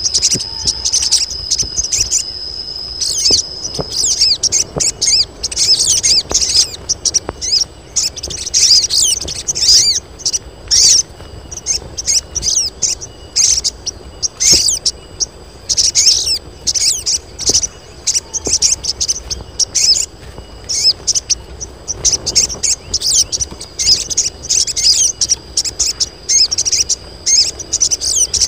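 Several female sogon birds calling in rapid, high, twittering chirps that come in repeated bursts, the calls of females in breeding condition that draw males. A steady high whine sounds under them for the first couple of seconds and again near the end.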